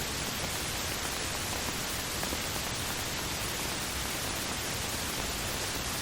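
Heavy rain falling in a steady, even hiss, with a few faint ticks of drops.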